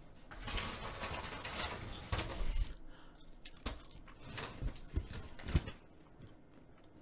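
Close-miked chewing of crispy shoestring french fries, with rustling and a few sharp crunches, fading out near the end.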